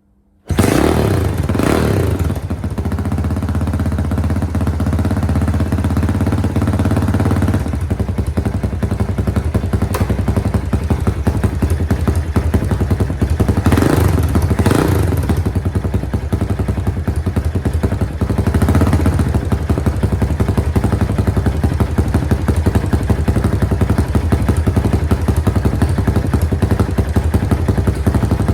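Suzuki GAG mini motorcycle's engine catching about half a second in, then running at idle with a few brief blips of the throttle.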